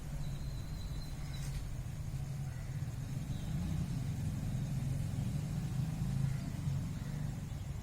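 A steady low rumble that grows a little louder in the middle, with a faint high thin tone near the start and a single brief click about a second and a half in.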